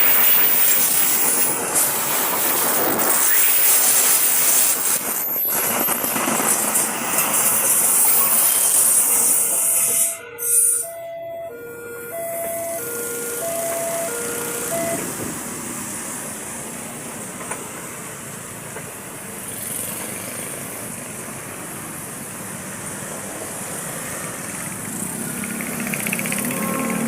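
A train passing close at speed, a loud steady rush of wheels and air. Partway through, the sound breaks off briefly, and a two-tone warning alternates in short beeps for about four seconds. It is followed by a quieter, steady rumble of train noise.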